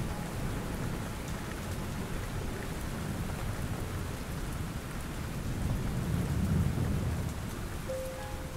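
Steady rain falling, with a low rumble of thunder that swells about six or seven seconds in. The rain begins to fade near the end.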